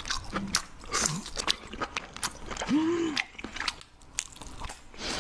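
A person biting and chewing crunchy food close to the microphone, with many sharp crunches and clicks. About three seconds in there is a short hummed 'mm' whose pitch rises and falls.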